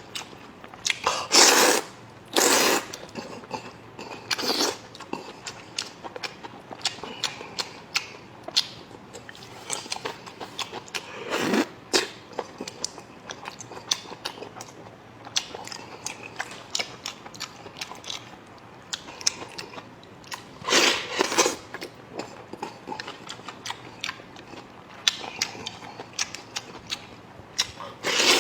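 A person eating close to the microphone: chewing and biting with many small wet clicks, and several louder noisy bursts spread through.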